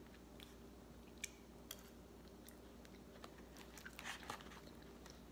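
Faint chewing of soft, thawed frozen durian flesh: a few soft mouth clicks over a faint steady hum.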